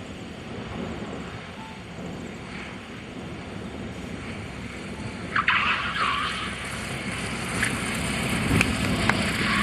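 Cessna 180's tyres screeching on the sealed runway, starting suddenly about halfway through and recurring to the end, as the plane touches down in a strong crosswind and drifts sideways on two wheels with its windward wing lifting.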